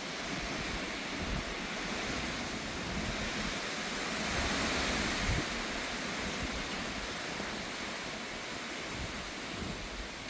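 Gusty wind ahead of a thunderstorm, a steady rush that swells to a peak about halfway through and then eases, with wind buffeting the microphone.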